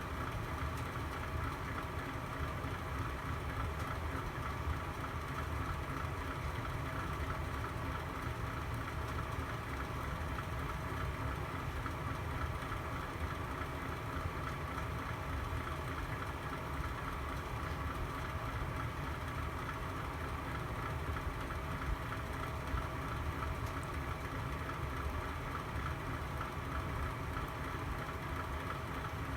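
Fire burning in a fireplace: a steady low rumble, with a few faint pops.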